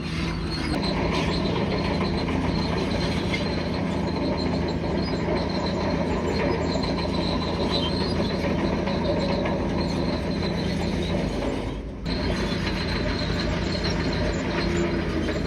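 Bulldozer's diesel engine running steadily, with its steel tracks clattering and squealing. The sound dips briefly about twelve seconds in.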